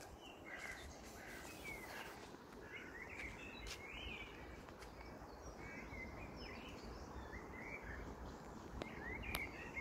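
Small birds chirping, short scattered calls through the whole stretch, over a faint low outdoor rumble.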